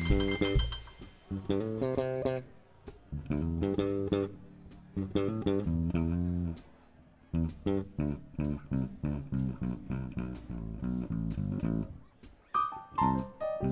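Electric bass guitar playing a solo line of plucked notes in the low and middle register, in phrases with short gaps, while the drum kit keeps time with light cymbal ticks.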